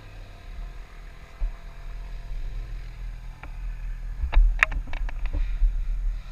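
A motorcycle on the move: a steady low rumble of engine and wind on the microphone. A string of sharp knocks and rattles comes about four to five seconds in.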